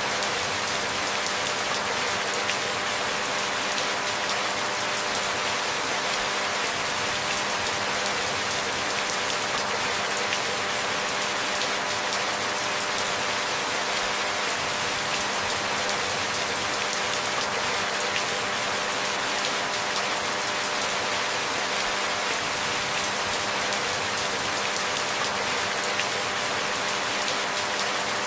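Steady rain falling and pattering on surfaces, an even hiss with no changes or breaks, over a faint steady low hum.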